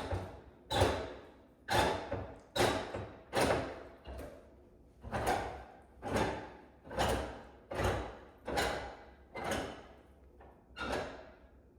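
Fireplace damper control rod being cranked open turn by turn: a clunk with a short scrape about once a second, about thirteen in a row. Opening the damper fully takes fourteen turns.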